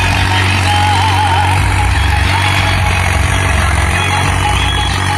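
New Holland 3630 tractor's diesel engine running steadily.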